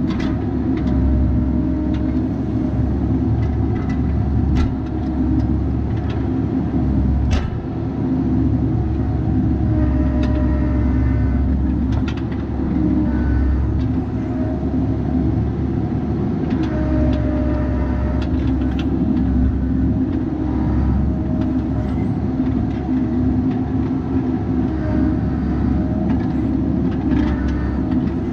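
Bobcat 337G mini excavator's diesel engine running steadily while working. A fainter whine comes and goes above it, and there are a few sharp knocks.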